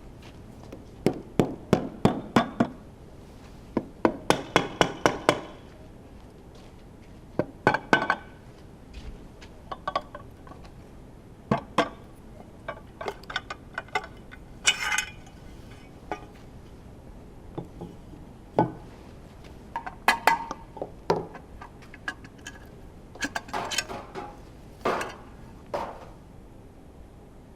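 Metal tools and engine parts clinking and knocking during engine disassembly: irregular clusters of sharp metallic taps and clinks, with quieter gaps between them.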